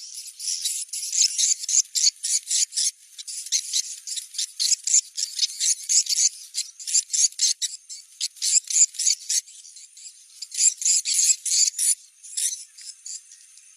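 Recorded swiftlet twittering: rapid runs of short, high-pitched chirps with brief pauses. It is the 'location check' lure call played to test whether swiftlets come to a site for a swiftlet house.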